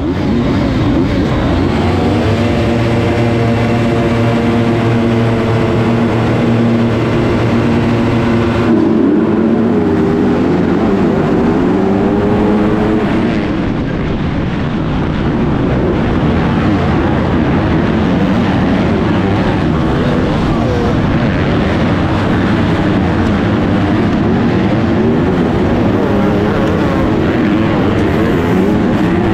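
Motocross bike engine, heard onboard, held at steady high revs for about the first nine seconds. Then the revs change abruptly and keep rising and falling as the bike accelerates and shifts through the gears.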